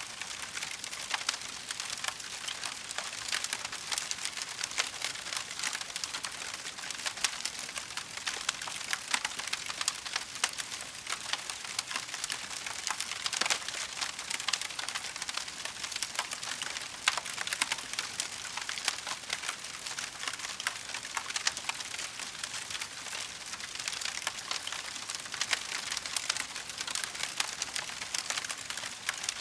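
Wood fire crackling: a dense, steady patter of small pops with frequent sharper snaps.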